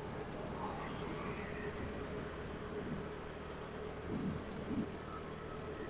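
Steady hum of a vehicle being driven, engine and road noise with a constant low drone, and two faint swells about four seconds in.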